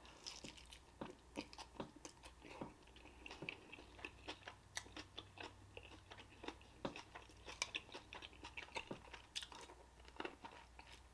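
Close-miked chewing of an onion-wrapped beef-and-cheese burger: faint, irregular mouth clicks, smacks and light crunches, several a second.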